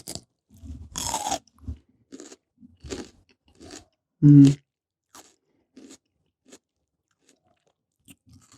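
Raw red pepper bitten with a crisp crunch about a second in, then chewed with scattered crunches. A short low hum from the mouth about four seconds in is the loudest sound.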